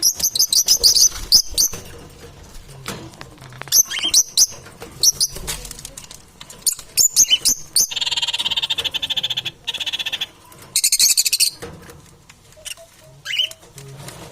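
Parrots calling in short bursts of rapid, high-pitched chirps, with a longer rapid buzzing call in the middle and a dense high-pitched burst right after it.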